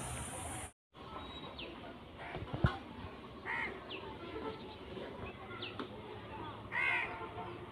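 Birds calling in the background: several short, high chirps and two louder, harsher calls, the second near the end. A single sharp click comes about two and a half seconds in.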